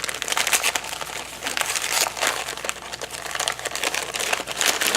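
Crinkly plastic packaging rustling and crackling in the hands as it is handled and opened.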